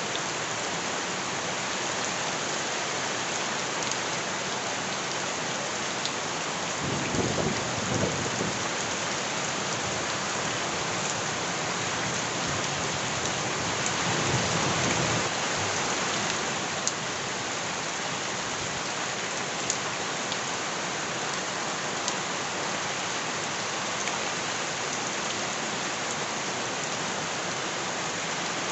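Steady heavy rain, with two low rumbles swelling about seven seconds in and again around fourteen seconds in, and a few sharp drip ticks.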